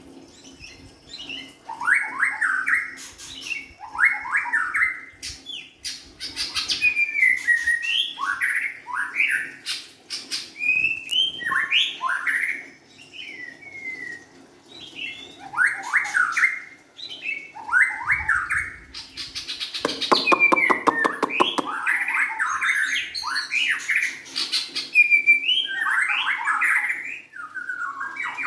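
White-rumped shama singing a run of varied, quick whistled phrases with rapid sweeping notes. About two-thirds of the way through, a harsh buzzing rattle of about two seconds breaks in. A faint low hum lies beneath.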